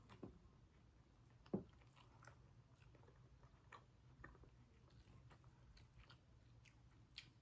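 Faint chewing and small wet mouth clicks of someone eating chicken and noodles, with one sharper knock about one and a half seconds in, over a low steady hum.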